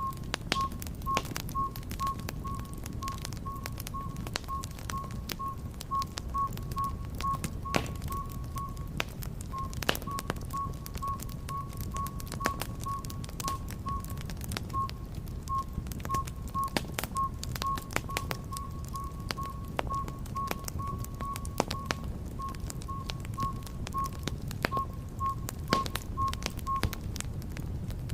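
Wood fire in a fireplace crackling, with frequent sharp pops over a low rumble. A faint high note pulses about two or three times a second, breaks off briefly about ten seconds in, and stops shortly before the end.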